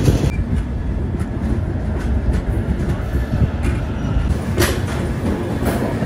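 Indian Railways express train's coaches rolling slowly into a station, a steady low rumble with a few sharp wheel clicks and clanks.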